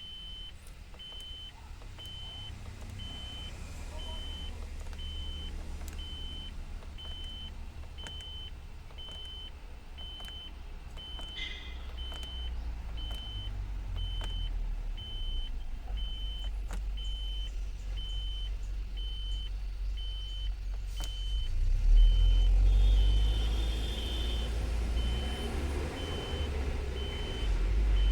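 Eicher BS6 truck's cab warning beeper sounding with the ignition on: one high beep repeating evenly about one and a half times a second, over a low rumble that swells louder near the end.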